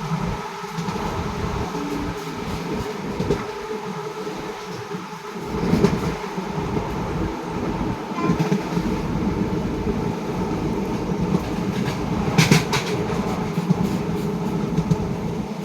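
Express passenger train rolling slowly into a station: a steady rumble with wheels clattering over rail joints, and a short metallic clank about twelve seconds in.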